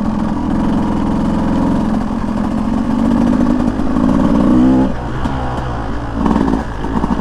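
Beta 200 two-stroke dirt bike engine running under throttle, its pitch holding steady for about five seconds. The throttle then drops off and the engine note turns uneven, picking back up near the end.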